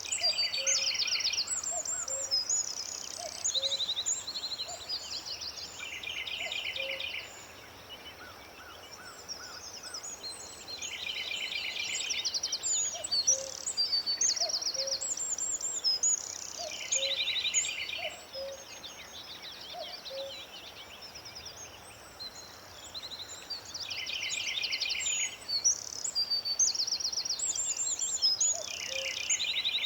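Several songbirds singing together. One repeats a fast trilled phrase about every five to six seconds, over many higher chirps and trills, with soft paired low notes underneath.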